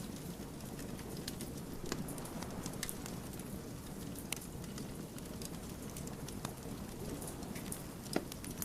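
Wood fire crackling: irregular sharp pops and snaps from the burning logs over a steady low rush of the flames, with one of the sharpest pops near the end.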